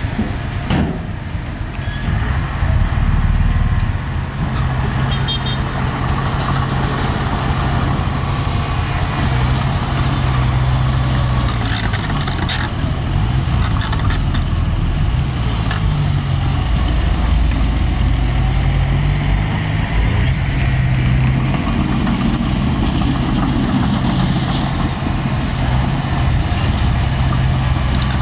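Diesel engine of a small bulldozer running under load, its pitch rising and falling, with occasional metallic clanks.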